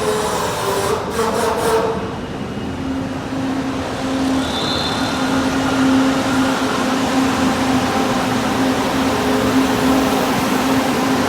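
LRT Line 2 electric train running, a steady rumbling noise with a constant hum that comes in about three seconds in and holds.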